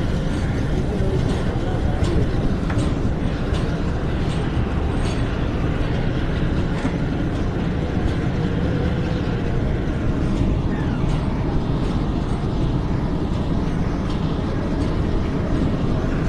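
Pakistan Railways passenger train running along the track, heard from an open door of one of its coaches: a steady rumble of wheels on rails with occasional faint clicks.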